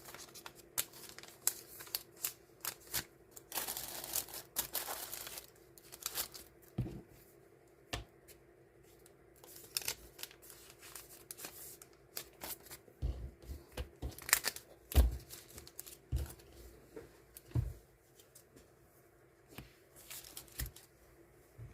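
Die-cut sticker sheets and plastic packing sleeves being handled and sorted: crinkling, light taps and clicks. There is a longer tearing rustle about four seconds in and a few soft thumps past the middle.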